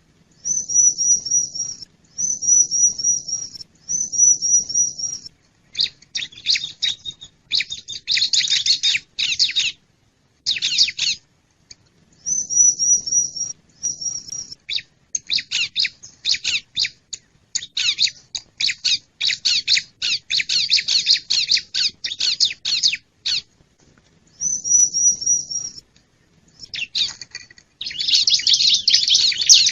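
Bar-winged prinia (ciblek) calling: short high trilled phrases repeated with brief pauses, alternating with longer runs of rapid, scratchy chattering notes. The chattering is densest near the end.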